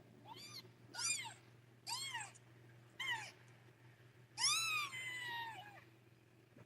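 Newborn kitten, under a week old, mewing five times in high-pitched cries that rise and fall, the last one longer than the others.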